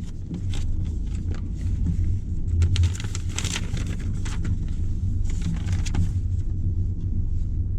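Steady low rumble of a car heard from inside the cabin, with a brief patch of quick clicks and hiss about three seconds in.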